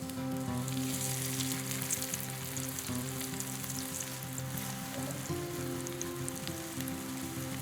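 Food deep-frying in hot oil: a dense, steady sizzle with fine crackling, under background music.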